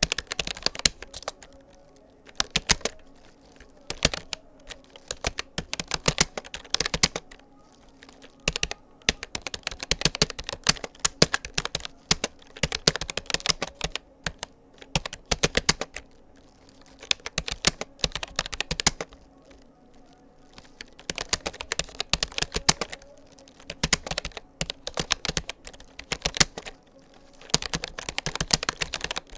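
Keystrokes on a Rapoo computer keyboard: touch typing at about 40 words per minute, in quick runs of clicks broken by short pauses.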